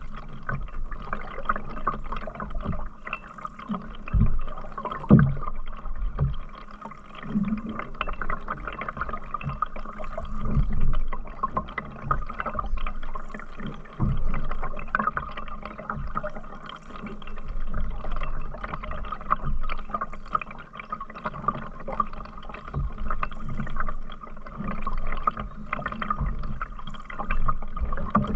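Canoe being paddled on a river: rhythmic paddle strokes swelling every two to three seconds, with water gurgling and dripping along the hull and scattered low knocks.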